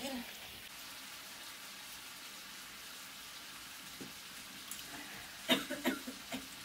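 Chicken frying in a pan over a wood fire, a steady sizzling hiss. A few short sharp knocks come near the end.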